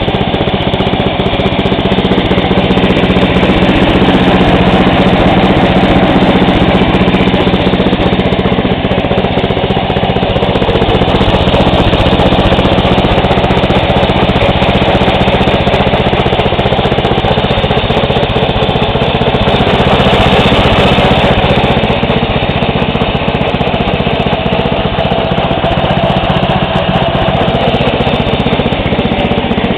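Briggs & Stratton I/C 12.5 hp vertical-shaft gasoline engine on a lawn tractor, running steadily at a constant speed.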